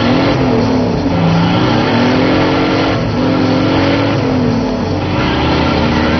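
Z car's engine heard from inside the cabin while driving, its pitch rising and falling several times as it pulls along the road, over steady road noise.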